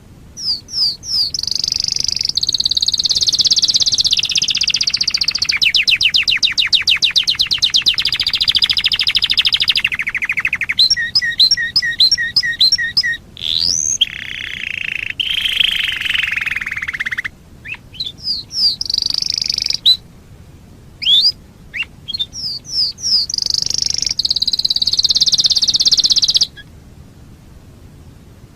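Domestic canary singing a long, varied song: fast rolling trills, runs of rapid repeated sweeping notes and buzzy phrases, broken by a few short pauses.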